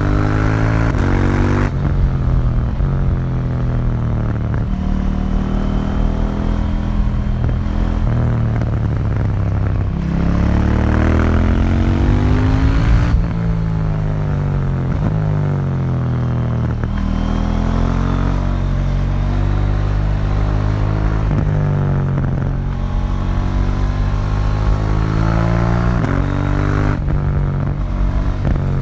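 KTM 790 Duke's parallel-twin engine through its stock exhaust, heard onboard while riding. The pitch climbs repeatedly under acceleration, with sudden drops at gear changes, and falls away as the throttle closes, about a dozen rises and falls in all.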